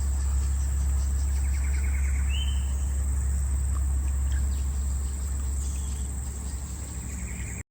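Rainforest insects droning at one steady high pitch, with a few short bird chirps and a quick trill, over a steady low rumble. The sound cuts off suddenly near the end.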